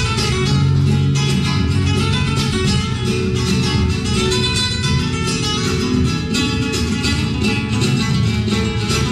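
Flamenco acoustic guitar playing, with quick, rhythmic plucked and strummed strokes.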